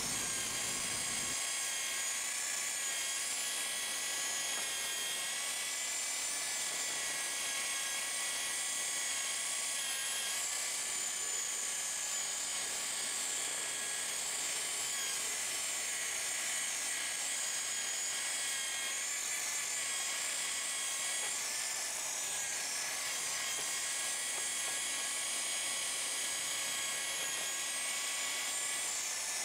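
Electric buffer (polisher) running steadily with a high whine, polishing a car's textured exterior trim.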